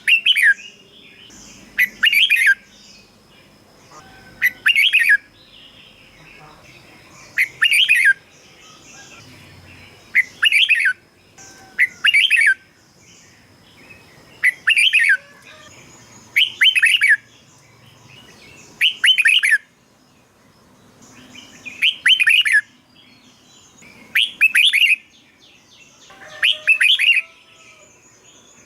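Red-whiskered bulbul singing: about a dozen short, loud warbled phrases, one every two seconds or so.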